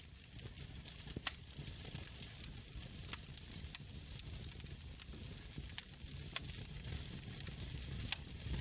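Wood fire crackling in a fireplace: a steady hiss over a low rumble, with scattered small ticks and about half a dozen sharper pops, the loudest about a second in and again about three seconds in.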